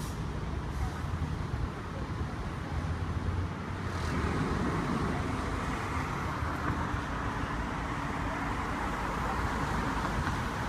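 Steady street traffic noise with a low vehicle engine rumble.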